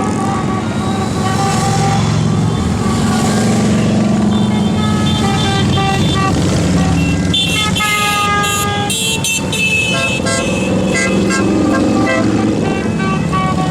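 Motorcycle engines running in a steady low rumble, with horns sounding several held toots over it, the busiest burst of horn notes a little past the middle.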